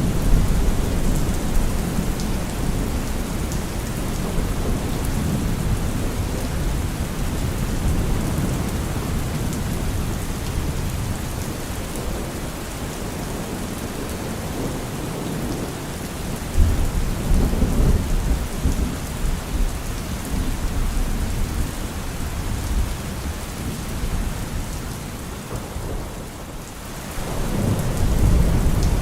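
Heavy rain drumming on a car roof, with thunder rumbling low underneath. The thunder swells about halfway through and again near the end, after the rain briefly eases.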